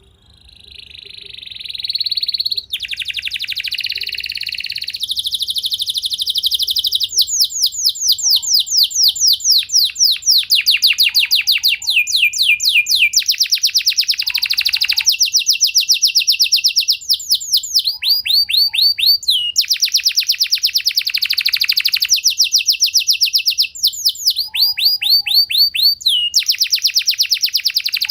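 Domestic canary singing a long unbroken song of rapid trills and rolls: each phrase is one note repeated many times a second, then switching to a new note, with rising and falling sweeps between phrases. The song fades in over the first couple of seconds and pauses briefly twice.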